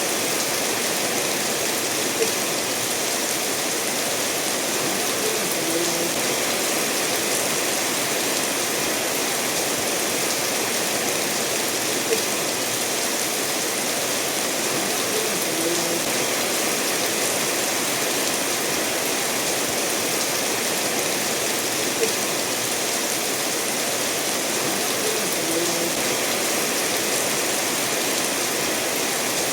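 Steady rain falling together with a stream running over stones, an even rushing hiss. A short sharp tick and a small plink recur about every ten seconds.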